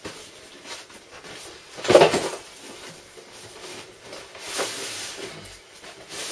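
Packaging being handled and pulled open: scattered rustling and crinkling, with one loud knock or crackle about two seconds in.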